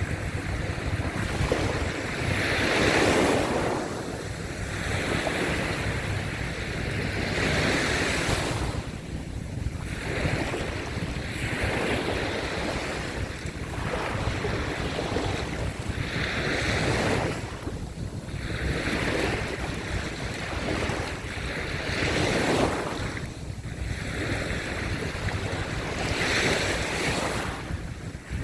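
Ocean waves breaking and washing up a sandy beach, surging every few seconds, with wind rumbling on the microphone.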